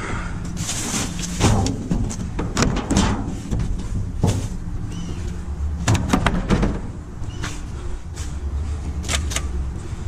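Junk being rummaged through in a dumpster: irregular knocks, clatters and rustles of objects being moved and dropped, over a steady low rumble.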